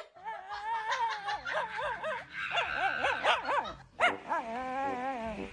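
A dog whining and yipping in a run of high, wavering cries. About four seconds in comes a sudden sharp yelp, followed by a longer, lower wavering whine.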